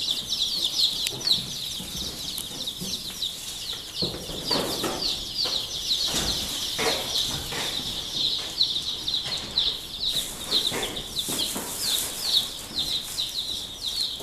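A brood of baby chicks peeping nonstop, a dense chorus of short, high, downward-sliding peeps. A few soft knocks and rustles come about four to seven seconds in.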